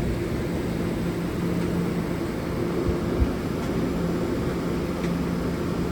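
Kawasaki R211S subway-type train standing at the platform, its on-board equipment giving a steady low hum over a rumble, with one short thump about three seconds in.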